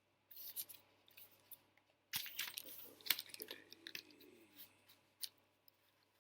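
Irregular clicks and crinkly rustling of small plastic pieces being handled, busiest in the middle.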